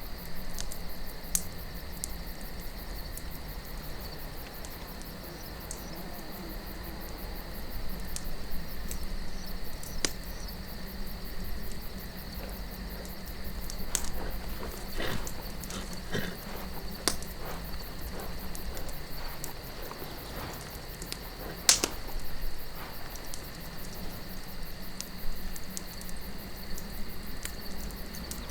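Wood campfire crackling, with scattered sharp pops and the loudest snap about three-quarters of the way through, over soft wind and a steady high insect trill.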